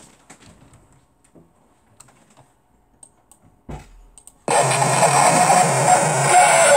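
Faint computer clicks and keyboard taps, then a short thump. About four and a half seconds in, a loud, dense, noisy tantrum sound clip made with an online voice changer starts suddenly and keeps playing through the computer's speakers.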